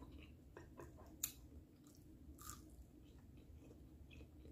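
Faint close-up chewing of a hash brown piece: soft mouth crackles and wet clicks, with one sharper click about a second in.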